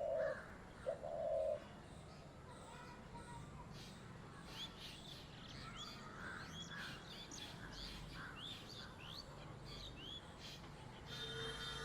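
Spotted dove cooing, two low notes in the first second and a half. Then other small birds chirp with many quick high notes, and a steady tone comes in near the end.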